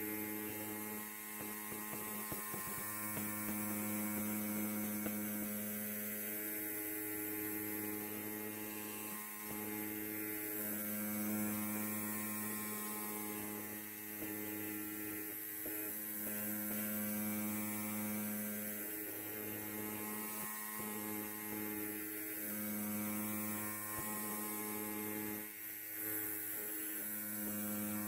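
Electric hair clipper running, a steady low buzz with a strong hum whose level wavers and dips briefly every few seconds.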